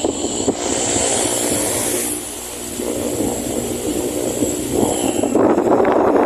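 Venti-Delta Premium 60 cm 170 W wall fan running, its airflow rushing and fluttering against the microphone. The noise dips slightly about halfway through and picks up again near the end.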